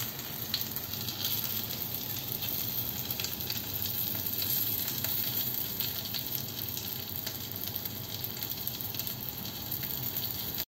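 Chicken skewers sizzling steadily on a ridged stovetop grill pan, with small crackles and spits of fat. The sound cuts off suddenly near the end.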